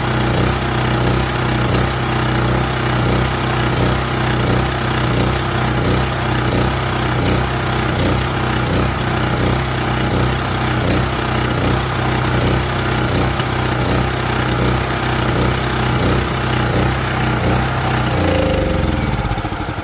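Champion portable generator's small gasoline engine running steadily on its original spark plug, with a regular pulse about twice a second. It winds down and stops near the end.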